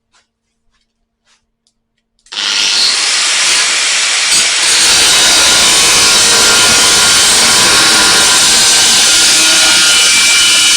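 Angle grinder with a cut-off disc cutting a slot through the sheet steel of a car's spare wheel well. It starts suddenly about two seconds in and runs loud and steady.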